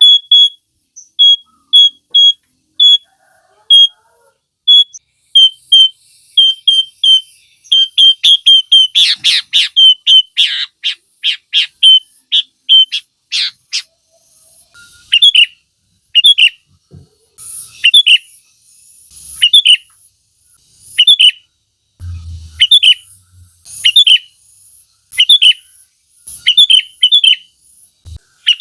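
Sooty-headed bulbul (kutilang) singing: short high notes repeated quickly, a dense run of fast sweeping notes about midway, then sharp down-slurred notes at roughly one to two a second.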